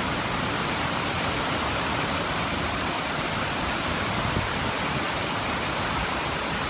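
Storm wind and rain making a steady, even rush of noise.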